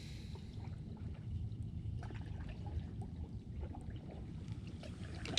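Water lapping and trickling softly around a kayak on a river, with a low rumble and scattered small clicks and knocks.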